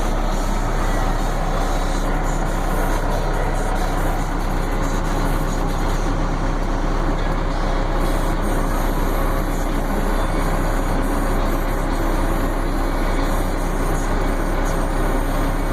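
Truck engine running steadily, with a constant low hum and no change in level.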